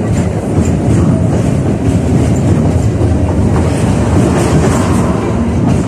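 71-605A (KTM-5A) tram running along the line, heard from inside the car: a steady rumble of wheels on rails and running gear, with light clicking from the track.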